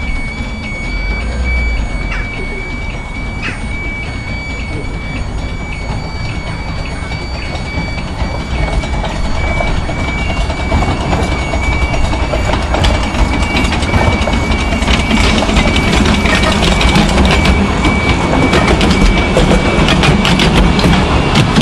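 A 15-inch gauge miniature train running along the track and growing louder as it comes closer. Over a steady high whine, a busy rattle of wheel clicks builds up from about halfway through.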